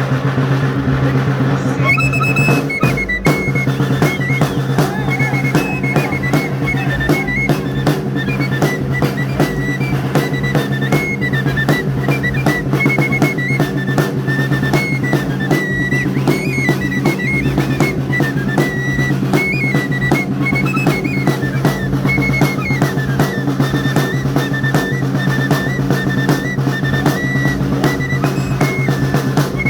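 Live music for the torito dance: a high flute plays a stepping melody over a fast, steady drum beat. The flute comes in about two seconds in, over a constant low hum.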